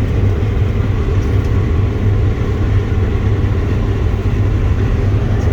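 Claas combine harvester running steadily while harvesting, heard from inside the cab as a constant low engine and machinery drone.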